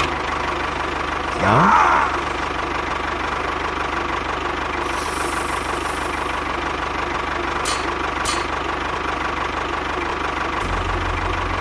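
A small motor runs steadily with a fine, rapid chugging rhythm. A short rising whine comes about a second and a half in, and two sharp clicks come a little past the middle.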